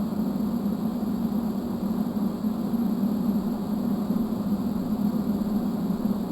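TIG welding arc from an Eastwood TIG 200 AC/DC welder burning steadily, a constant hum with a hiss over it.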